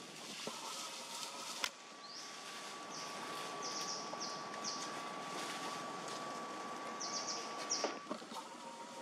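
A bird chirping in two short runs of quick high notes, one a few seconds in and the other about two-thirds of the way through. Under them run a steady background hiss and a faint steady tone, with a single sharp click at about a second and a half.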